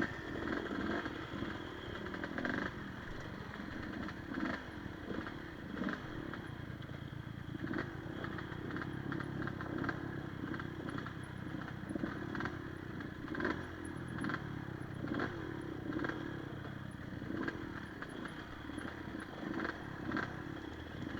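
Enduro motorcycle engine running over rough ground, its pitch rising and falling as the throttle opens and closes. Frequent knocks and clatter come from the bike on the terrain.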